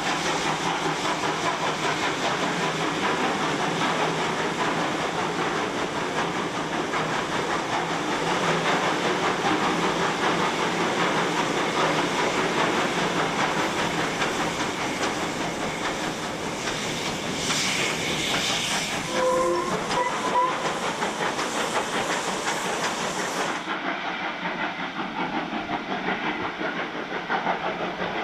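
Steam locomotive working up a steep grade, with a steady hiss of steam and exhaust and the train rolling over the rails. There are a couple of short whistle toots about two-thirds of the way through.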